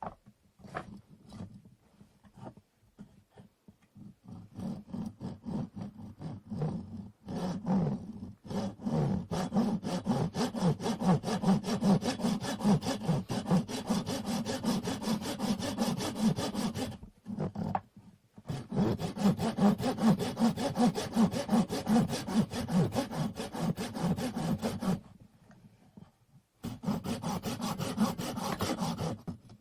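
Hand saw cutting a wooden stick in quick, steady back-and-forth strokes. It begins with a few light, scattered strokes, then saws continuously, stopping briefly twice.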